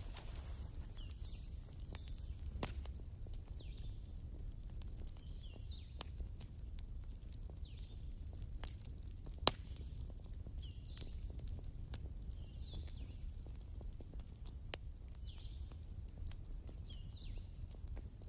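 Wood fire crackling: scattered sharp pops and snaps over a steady low rumble, with two louder pops about halfway through and again near three-quarters of the way. Faint short high chirps repeat about once a second in the background.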